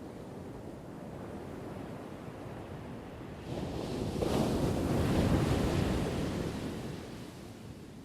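An ocean wave breaking: a low steady wash that builds suddenly about halfway through, peaks, then fades as the water runs back.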